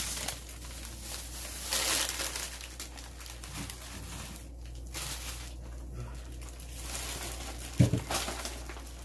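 Plastic bags and packaging rustling and crinkling as food is handled and moved out of a refrigerator, louder in short patches, over a steady low hum.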